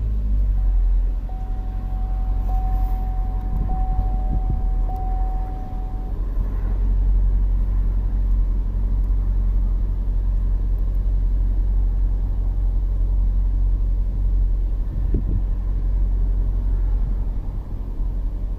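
2013 Chevrolet Equinox's 2.4-litre four-cylinder engine idling with a steady low rumble. A steady high tone sounds in several stretches during the first six seconds.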